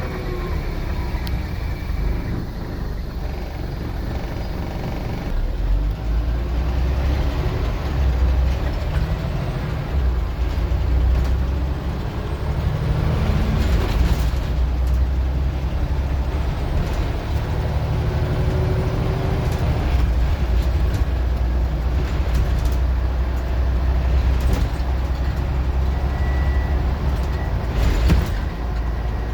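Scania N94UD double-decker bus's diesel engine running and working hard, its low rumble rising and falling as it pulls and changes speed, with a couple of short air hisses, one about halfway and one near the end.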